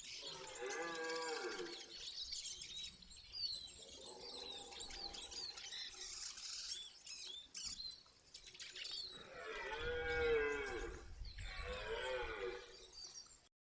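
Rutting deer stag bellowing: several drawn-out calls that rise and fall in pitch, the two loudest near the end. Small birds chirp between the calls.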